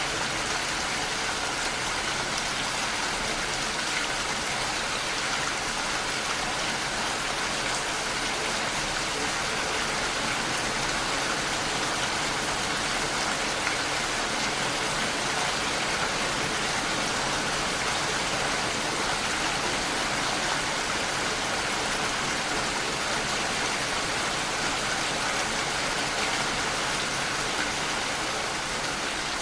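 Steady rain pattering against a window pane, an even hiss of drops with a few faint individual taps.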